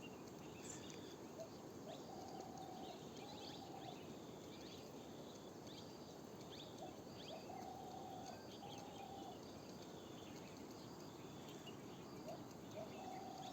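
A ghughuti dove cooing faintly, three phrases each made of a short note then two longer, even coos, with small birds chirping and twittering higher above.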